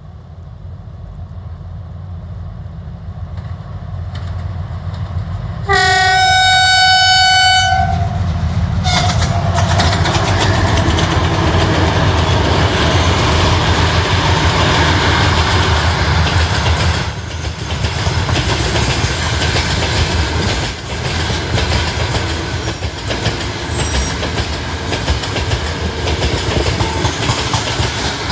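Two 2TE10U diesel locomotives with 10D100 two-stroke diesels approach with a rising low rumble. The horn is blown for about two seconds some six seconds in, then once more briefly. The locomotives and a long train of coal-loaded gondola wagons then run past with loud rumbling and the clickety-clack of wheels over rail joints, with a thin high squeal in the middle.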